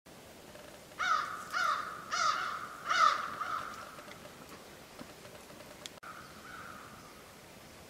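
A bird calling: four loud, harsh caws in quick succession, then a fainter one about six seconds in.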